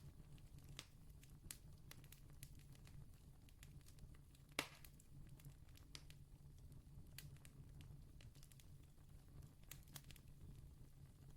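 Faint campfire crackling: scattered small pops and snaps of burning wood, with one louder pop about four and a half seconds in, over a low steady rumble.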